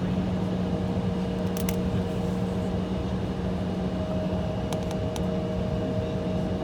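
Steady cabin drone inside an Embraer E175 jet on the ground, from its idling turbofans and air conditioning: a strong low hum under two fainter higher tones, with a few faint clicks.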